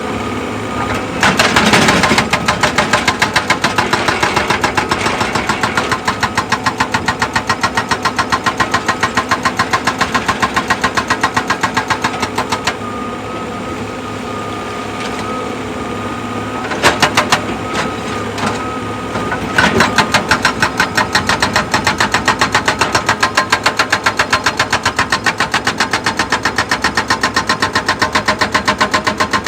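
Excavator running, with long runs of rapid, evenly repeated pounding over a steady engine tone. The pounding stops for a few seconds in the middle, leaving the engine alone, then starts again after a short loud burst.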